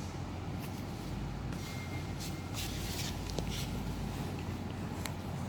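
A steady low hum with scattered rustling and a few light clicks.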